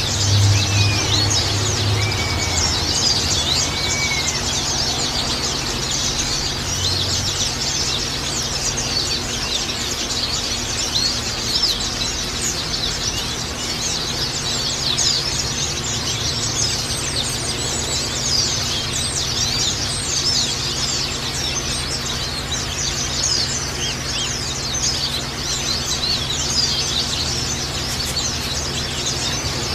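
A dense chorus of many white-eyes (pleci) chirping and twittering without a break, high thin calls crowding over one another.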